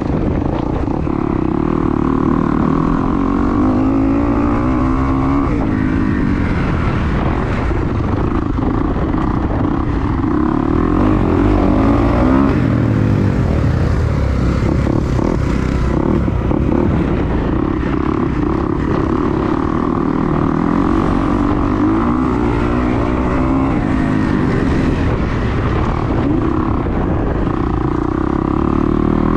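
2022 Kawasaki KX250's four-stroke single-cylinder engine on a dirt track, its pitch rising and falling several times as the throttle is rolled on and off. Heavy wind buffets the microphone throughout.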